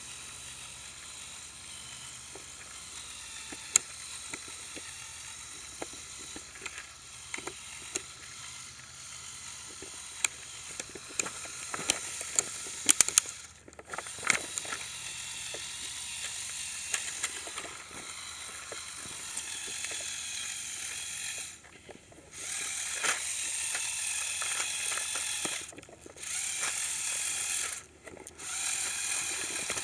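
Electric drive motors and gearing of a remote-controlled Lego Technic trial truck running in bursts, a high whine with many sharp clicks from the gears and wheels. The motors stop and start again several times in the second half, the runs there being louder.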